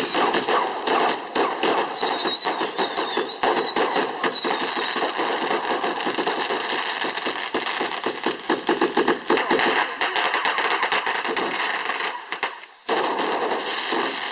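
Fireworks going off in a rapid, continuous barrage of bangs and crackles. Wavering whistles come about two seconds in, and a falling whistle comes near the end.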